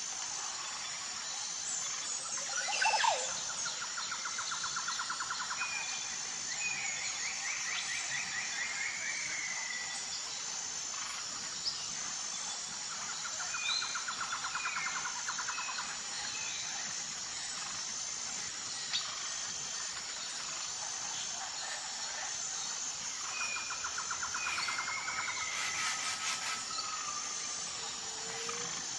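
Birds calling over a steady, high insect drone: short chirps and whistles, and a rapid trill a few seconds long that comes three times, about every ten seconds.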